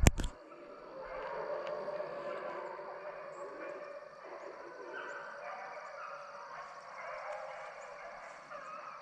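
Hunting dogs barking and baying during a deer drive, with a short loud knock at the very start.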